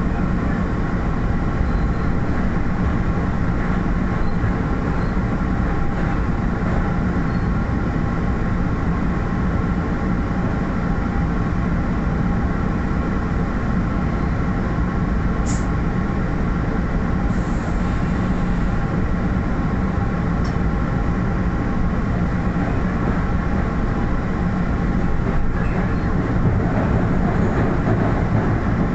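An MBTA commuter rail train running at speed, heard from aboard a coach: a steady rumble with a constant hum, a couple of brief ticks about halfway through, and a slight swell near the end.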